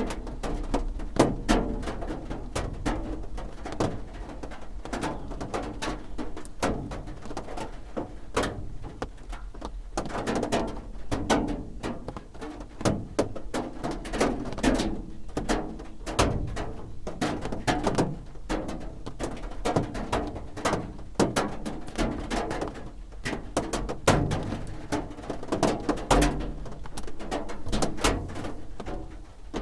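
Raindrops drumming on a roof: a dense, irregular patter of taps and knocks that never lets up, some hits louder than others.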